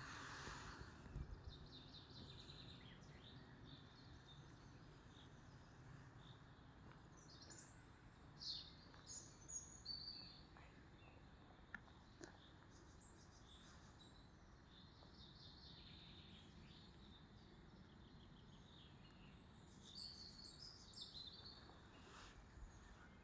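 Faint outdoor ambience with scattered bird chirps and calls, bunched in a short flurry about a third of the way in and another near the end, over a soft steady hiss.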